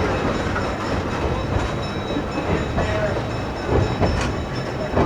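Excursion train's cars rolling past, wheels clacking over the rail joints, with a steady rumble and a few sharper knocks.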